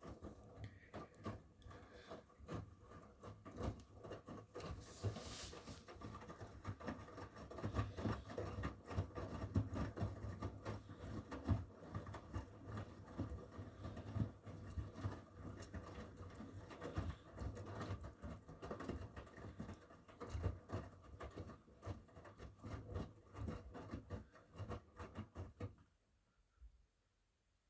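Miele W1 front-loading washing machine in its wash phase: the drum turns with a low motor hum while the wet laundry tumbles and sloshes in many soft, irregular knocks. The drum stops abruptly near the end, as it does between turns.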